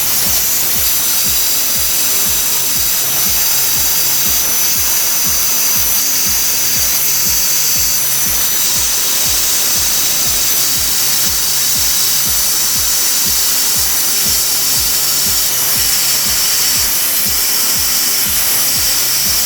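Handheld steam cleaner jetting steam into an air conditioner, a steady loud hiss with a regular low pulsing underneath.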